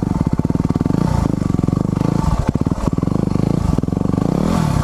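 Motorcycle engine running at low revs while being ridden, a fast pulsing note that changes with the throttle, the revs starting to rise near the end.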